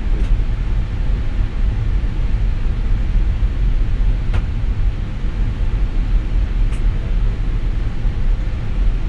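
Steady low rumble of an Airbus A320neo flight deck's background noise, with three faint clicks.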